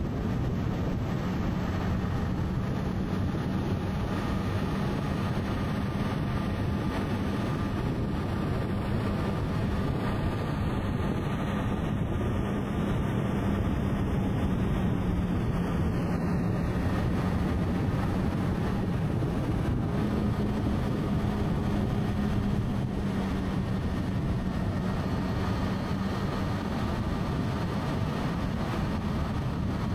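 Motorcycle engine running steadily at cruising speed, with a constant low hum and road and wind noise.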